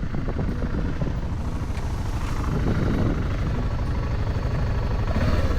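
Motorcycle under way on the road: a steady low rumble of engine and wind rush, growing slightly louder.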